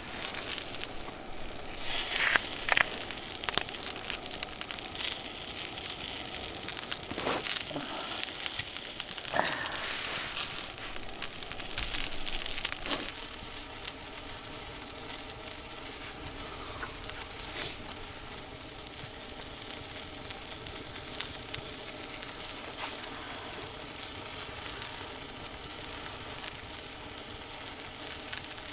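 Food sizzling in a hot pan over a fire. Several knocks and handling sounds come in the first half, then a steady sizzle holds for the rest.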